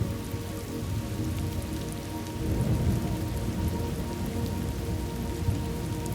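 Thunderstorm ambience: steady rain falling, with a low rumble of thunder that swells about two and a half seconds in.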